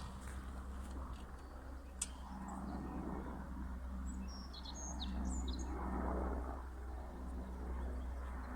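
Small birds chirping in a few short calls, over a steady low outdoor rumble.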